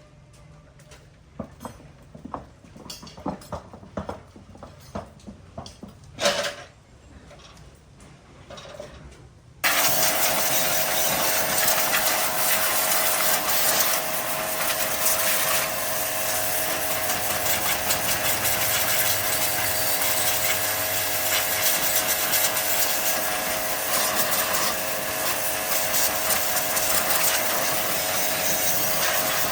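Light clinks and knocks of handling tools or parts, then about a third of the way in a power tool starts suddenly and runs steadily with a whine and a harsh abrasive hiss, like grinding or sanding.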